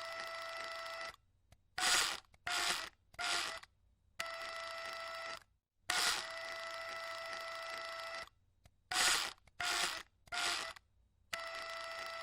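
A small electric machine running in a repeating cycle: a steady whirring tone lasting a second or two at a time, with twice a group of three short sharp mechanical bursts between the runs.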